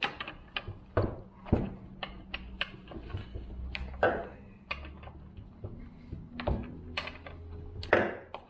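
Irregular clicks, knocks and clanks of a chainsaw and metal tools being handled on a workbench, as the saw comes out of a bench vise to have its bar and chain removed. A low steady hum runs underneath.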